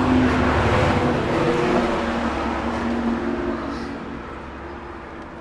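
A road vehicle going past, loudest at the start and fading steadily away.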